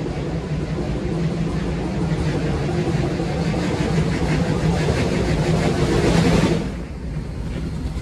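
Approaching museum railway goods train, its running growing steadily louder with a low hum and a rhythmic beat above it, then dropping off suddenly about six and a half seconds in.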